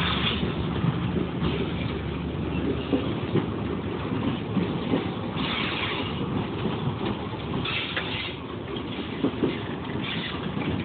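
Passenger train rolling along the rails through the station, a dense rumble with clattering, and brief higher hissing bursts every few seconds.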